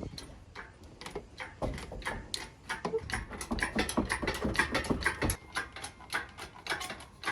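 Irregular metal clicks and light knocks, several a second, as an engine is hoisted out of a car's engine bay on an engine crane.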